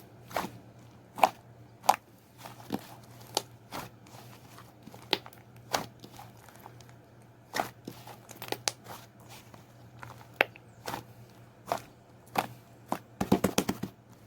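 Slime being squeezed and pressed by hand, giving irregular sharp clicks and pops with a quick flurry of them near the end, over a faint steady hum.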